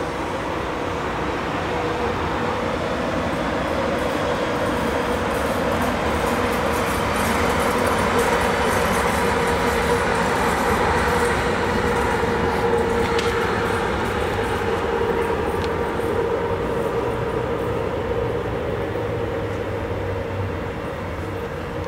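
Electric locomotive hauling double-deck passenger coaches rolling slowly past on the station tracks: a steady hum over wheel-and-rail rumble, swelling to its loudest midway and then easing off as the train draws away.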